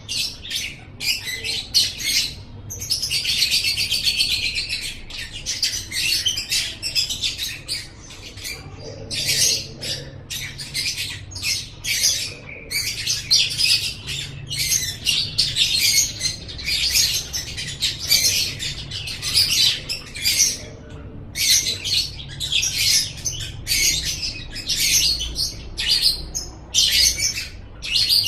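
Lovebird singing a long, fast run of high chirps and twitters, broken by a few short pauses, over a faint low hum.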